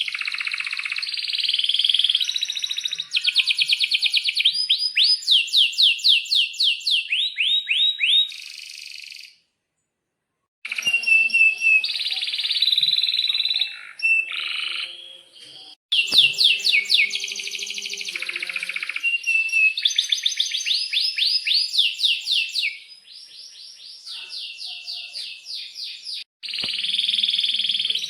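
Domestic canary singing: phrases of rapid repeated chirps and long rolled trills, each phrase a run of fast notes, broken by a pause of about a second roughly halfway through the first half.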